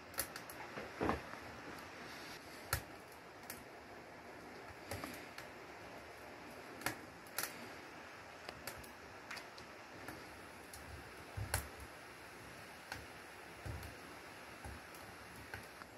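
Freshly lit wood fire burning in a stove: irregular sharp crackles and pops from catching brush and pine kindling over a faint steady hiss.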